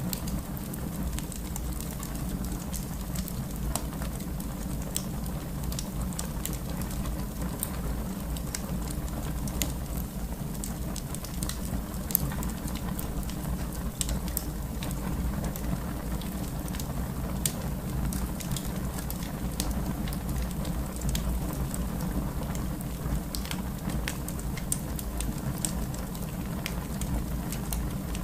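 Fireplace fire burning with a steady low rumble and frequent small crackles and pops scattered throughout.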